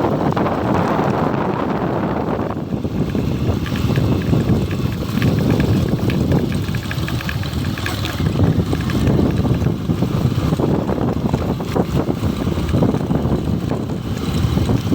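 Wind buffeting the microphone over the running of a motorcycle on the move, a steady rumbling noise that surges and eases throughout.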